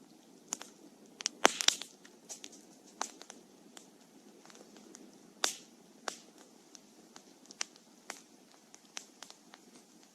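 Wood fire crackling, with irregular sharp pops of burning wood over a low steady rush of flame. A quick cluster of loud pops comes about a second and a half in, and another strong pop comes about five and a half seconds in.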